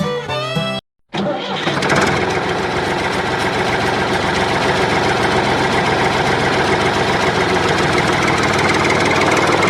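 A motor starts up about a second in and runs steadily, loud and even, with a dense mechanical noise.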